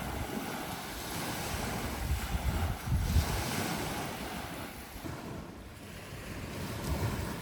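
Waves washing on a beach, with wind rumbling on the microphone. The surf swells about three seconds in and eases off after about five.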